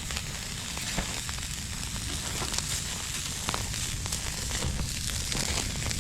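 Food sizzling in a hot pan over a camp fire: a steady hiss with scattered small crackles.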